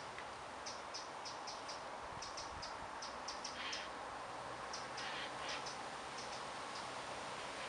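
A small bird calling with short, high-pitched chips, repeated a few times a second in irregular runs, over a steady woodland hiss.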